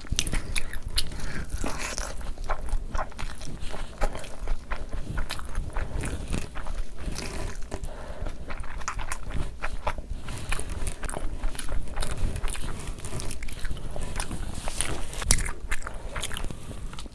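Close-miked eating: chewing and biting mouthfuls of pulao and mutton curry, heard as a steady run of many short mouth clicks.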